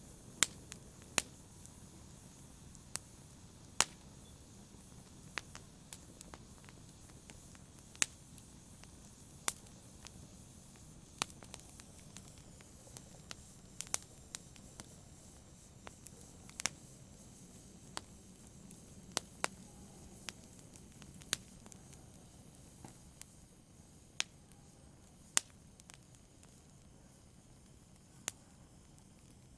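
Wood campfire crackling: sharp, irregular pops about once a second over a soft, steady rush of flame.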